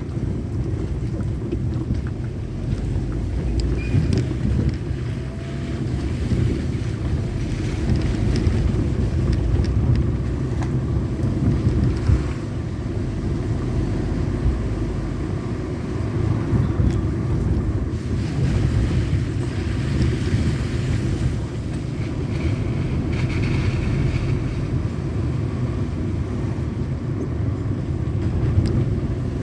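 Steady low rumble of a moving vehicle with wind buffeting the microphone, unbroken throughout.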